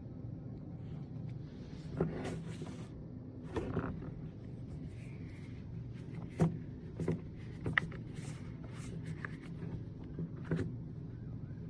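A steady low hum with about six short clicks and knocks spread through it, the loudest a little past the middle.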